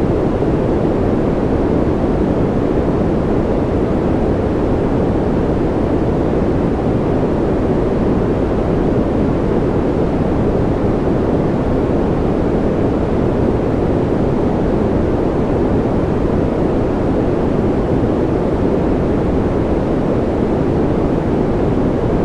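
Steady white noise for sleep: an even, unbroken hiss that never changes, weighted toward the low and middle pitches so it sounds muffled and rushing rather than bright.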